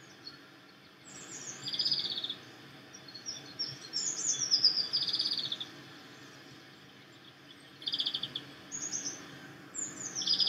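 A songbird repeating a short song several times: a run of quick descending notes ending in a buzzy trill, over a faint steady background hiss.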